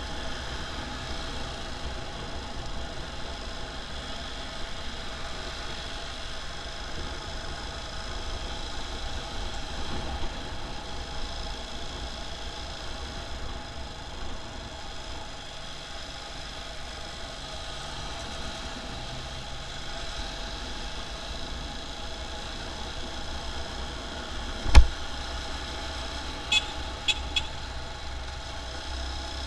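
Motorcycle running in traffic, with a steady engine and road rumble. A single sharp knock comes near the end, followed by three quick short high blips.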